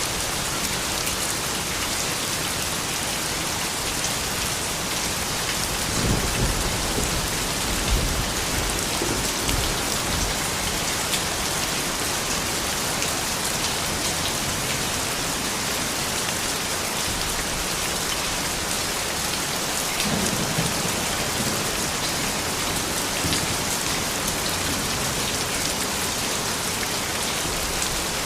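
Steady rain falling, with low rumbles of thunder from about six to ten seconds in and again around twenty seconds.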